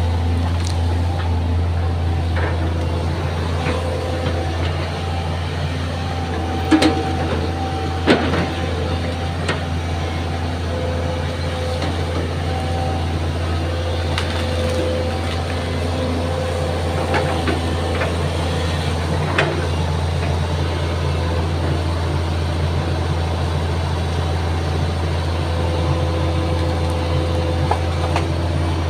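Hydraulic excavator's diesel engine running steadily at a constant pitch, with a few sharp knocks, the loudest two about seven and eight seconds in.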